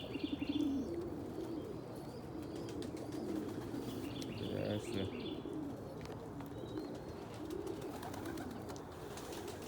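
Domestic pigeons cooing in a loft, low coos overlapping throughout, with a brief higher chirp about four and a half seconds in.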